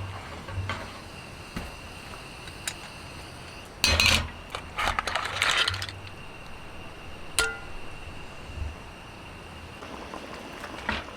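Cookware and dishes being handled: a dense clatter of clinks and knocks about four seconds in, then a single sharp clink that rings briefly.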